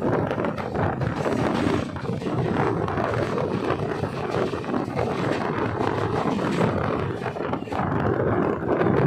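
Steady rumble and rattling clatter of a moving local electric train, with wind buffeting the microphone.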